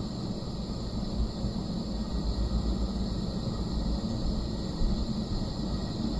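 A dog snoring: a low, rough rumble that runs on without clear pauses.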